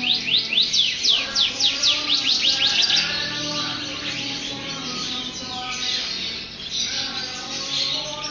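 A songbird singing: a rapid series of sharp, sweeping whistled notes, about four a second, then a denser warbling jumble of high notes from about three seconds in.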